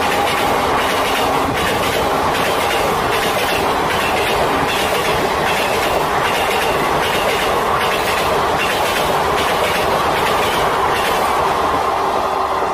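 Passenger train coaches running past at speed, the wheels clattering over the rail joints in a steady clickety-clack.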